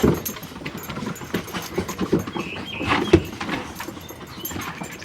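A Boxer dog and puppies playing rough: scuffling and panting, with a few short high squeaks and one louder thump about three seconds in.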